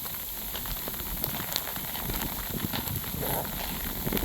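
Sleet pellets falling and hitting the ground and nearby surfaces: a steady crackle made of many small, sharp ticks.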